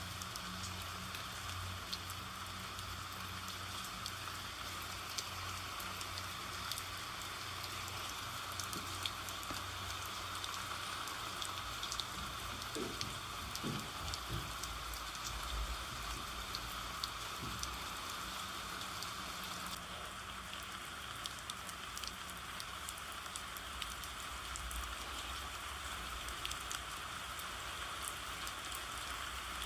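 Steady rain falling, with many small ticks of single drops. A low rumble comes in briefly around the middle.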